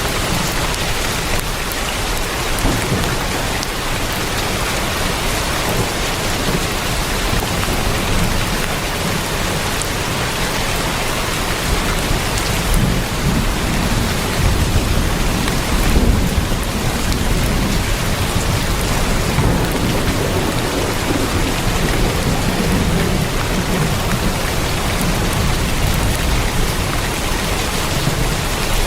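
Heavy rain drumming steadily on a tin roof. A low rumble swells up in the middle and again later before easing off.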